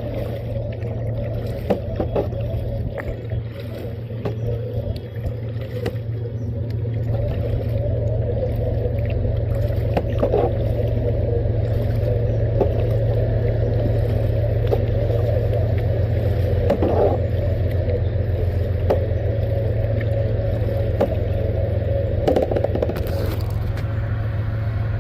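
Steady low mechanical rumble of a heavy vehicle with a regular low pulsing, growing louder about seven seconds in, with a few light knocks and scrapes.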